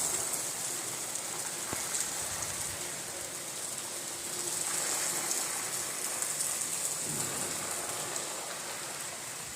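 Heavy rain pouring steadily, pattering on surfaces, as a continuous even hiss.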